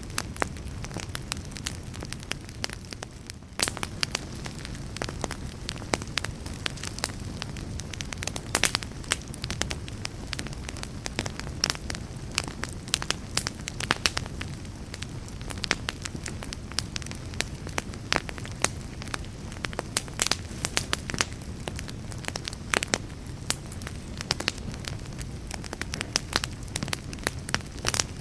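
Campfire burning, with a steady low rumble of flames and frequent irregular sharp crackles and pops of burning wood.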